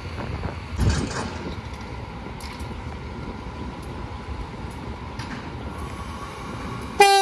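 Steady low rumble of a diesel train at a railway station, with a louder clatter about a second in. Right at the end a train horn starts suddenly on one steady note.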